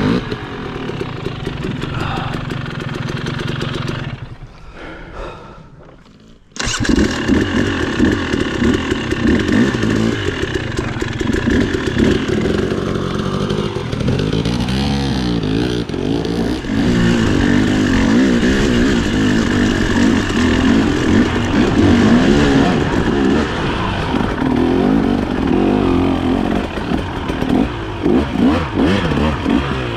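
Dirt bike engine running under changing throttle, its pitch rising and falling. About four seconds in the sound fades away for a couple of seconds, then comes back suddenly at full strength.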